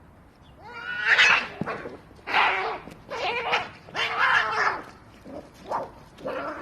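Cats fighting: a run of about six loud, harsh screeching yowls, starting about a second in.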